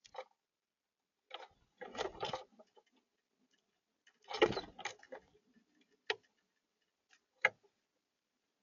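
Irregular taps and knocks of a blue jay pecking at food on a feeder. There is a short cluster about two seconds in, the loudest knocks come around four and a half seconds in, and single taps follow.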